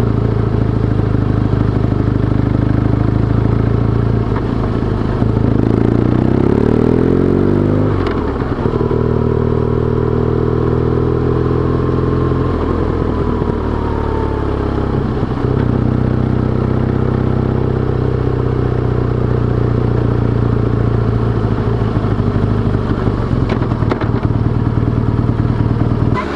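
BMW R1200GS boxer-twin motorcycle engine running under way: revs climb a few seconds in, then drop sharply as it shifts gear, ease off and fall in the middle, and settle into steady running.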